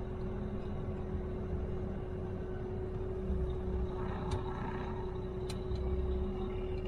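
Truck engine and road noise heard from inside the cab while driving slowly: a steady low rumble with a constant hum, and a couple of light clicks about halfway through.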